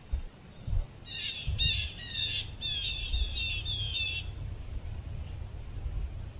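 A bird calling a quick run of repeated short notes for about three seconds, over a low rumble of wind on the microphone.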